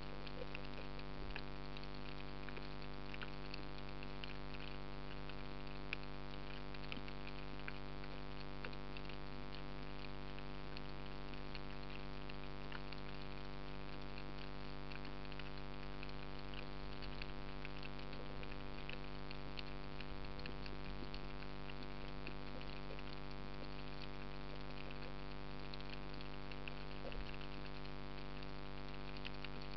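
Underwater ambience picked up by a camera in its housing: a steady electrical hum with dense, fine crackling clicks throughout.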